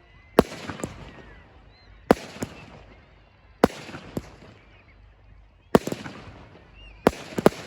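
Aerial fireworks bursting: a series of sharp bangs about every one and a half seconds, several followed by a smaller second pop, with a quick cluster of three near the end.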